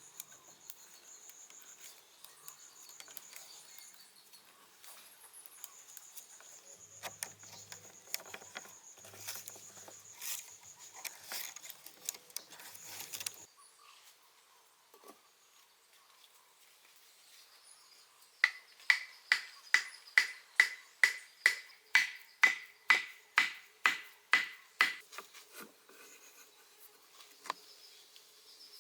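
Insects chirring on a high steady note, with a few scattered light knocks, then a run of about fifteen sharp, evenly spaced blows, about two a second, each with a short metallic ring: a hammer striking.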